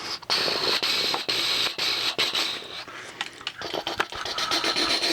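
Cardboard-and-plastic blister packaging rustling and scraping, with many sharp clicks and crinkles, as an action figure is worked out of its package.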